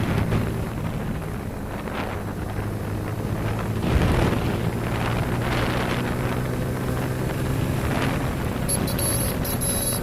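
Motorcycle engine running at road speed with wind buffeting the microphone; about four seconds in the engine note rises as it speeds up. A high warbling sound comes in near the end.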